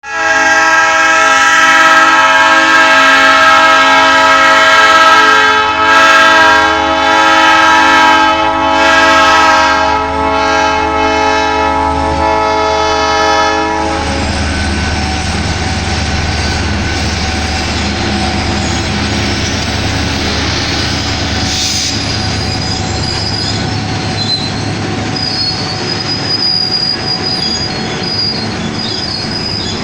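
Horn of an EMD JT26CW-2B diesel locomotive sounding a long chord for about fourteen seconds, broken twice briefly, then the low rumble of the train rolling on with thin wheel squeal coming in over the second half.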